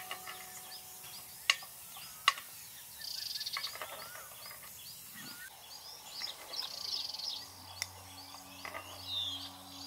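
Birds chirping and calling in short, repeated whistles and trills, with a few sharp clicks.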